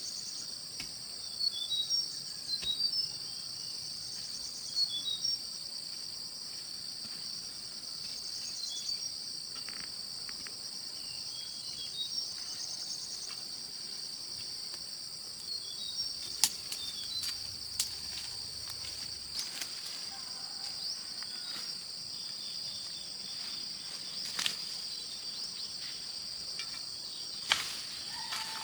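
Steady high-pitched drone of an insect chorus, with short bird chirps in the first few seconds and a few sharp clicks or knocks in the second half.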